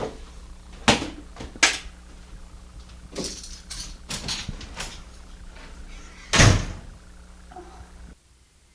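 Scattered sharp knocks and clicks, then one much louder, heavy thump about six and a half seconds in; the sound drops away abruptly near the end.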